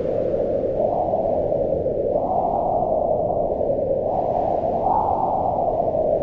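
Howling wind in a snowstorm: a steady rush of noise whose pitch rises and falls in slow gusts, swelling about a second in, again around two seconds in, and once more near five seconds.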